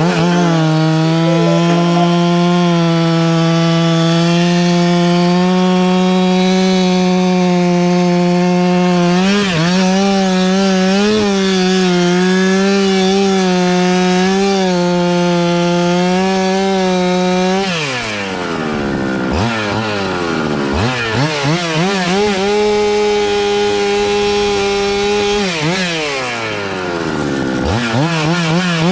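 Two-stroke chainsaw held at full throttle while cutting wood, its pitch wavering slightly under load. After about 17 seconds the throttle drops off, and the saw is revved up and let fall several times.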